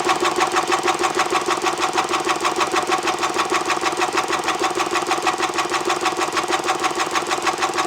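The starter cranks a 1995 Polaris SL 750 jet ski's three-cylinder two-stroke engine for a compression test on the PTO-side cylinder, which reads 130 psi. It makes a steady, fast, even chugging rhythm that holds at one speed throughout.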